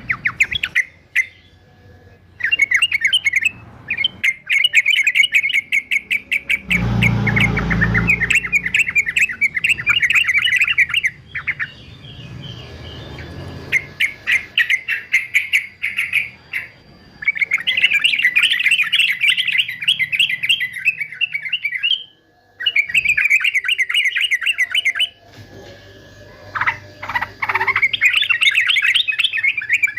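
Male yellow-vented bulbul singing in long runs of rapid chattering notes, with a few short breaks. A dull bump sounds about seven seconds in.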